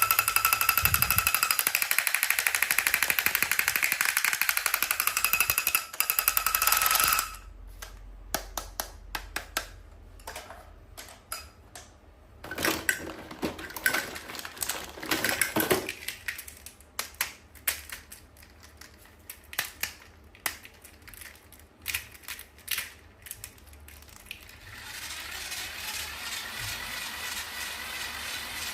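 Toys and their packaging being handled: a dense, steady, high-pitched rattling buzz for the first seven seconds, then a run of sharp clicks and taps, with the buzz returning near the end.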